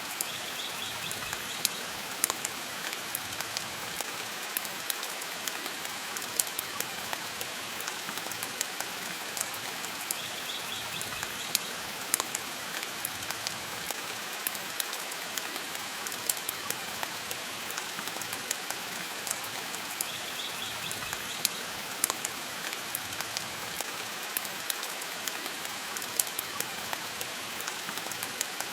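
Steady rain hissing, with a wood fire crackling over it in frequent sharp, irregular pops and snaps. A brief high-pitched sound recurs roughly every ten seconds.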